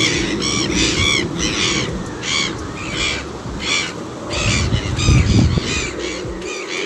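A bird calling over and over in short, arched notes, about two a second, over a low rumble that swells about five seconds in.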